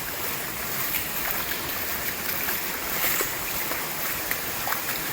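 Storm floodwater rushing along a flooded street: a steady wash of flowing water with a few faint splashes and ticks.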